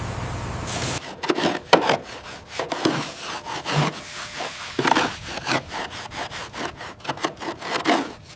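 Rough, irregular scraping strokes of a hand tool working a surface. They begin about a second in, just as a steady hum stops.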